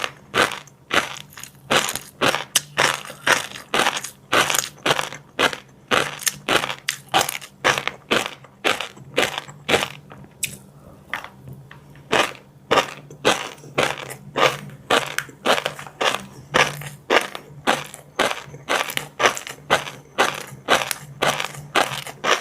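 Close-miked chewing of crunchy food, a mukbang eater biting through a crunchy fried seafood and roe mouthful. The crunches come steadily at about two to three a second, with a short pause about ten seconds in.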